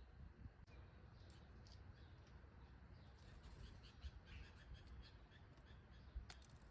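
Faint bird chirps and calls: many short, high notes in quick succession, starting about a second in.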